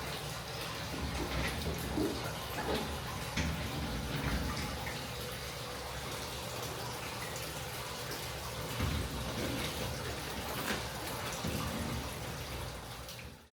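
Water running steadily, with light splashes and drips.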